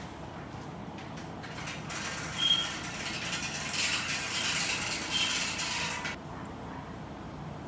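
An engine running steadily, with a louder stretch of mechanical clattering and rattling from about two to six seconds in.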